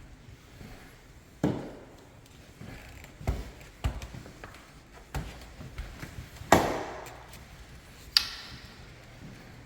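A handful of irregular knocks and thuds on a hardwood floor, as from footsteps and equipment being handled. The loudest comes about two-thirds through and rings out briefly, and a sharp click follows near the end.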